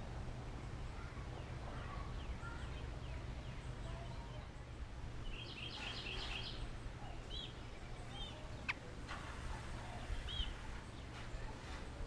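Faint songbird calls over a steady low rumble. About halfway through comes a quick run of about five high notes, then a few short, separate high chirps, with a single sharp click in between.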